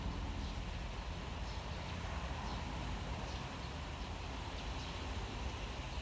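Steady rain falling, with faint drips ticking now and then over a low rumble.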